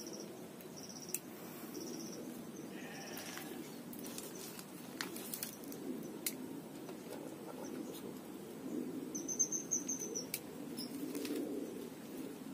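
A bird calling with short high notes about once a second, then a louder quick run of high chirps about nine seconds in. A few sharp clicks sound over a steady low background hum.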